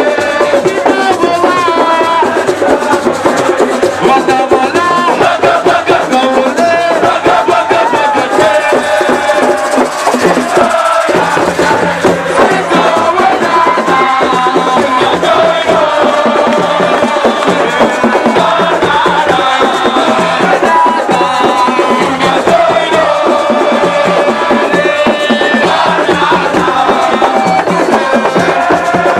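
A crowd singing and chanting loudly and continuously, many voices at once, over rattling percussion.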